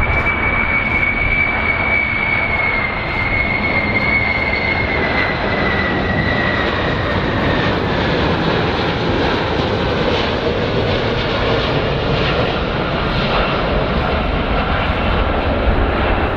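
Jet aircraft engines running with a steady rush and a high whine that slowly drops in pitch and fades over the first several seconds.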